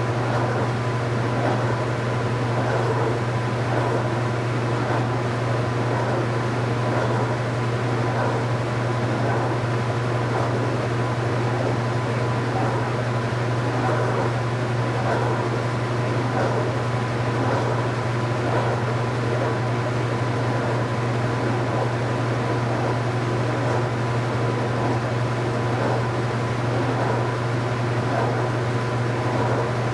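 2015 Speed Queen 8 Series top-load washing machine running steadily, with a constant low motor hum.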